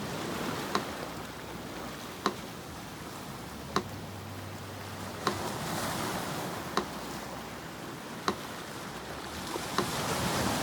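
Sea surf washing steadily and swelling toward the end, with a metronome ticking slowly over it: seven sharp clicks, one every second and a half or so, about 40 beats a minute.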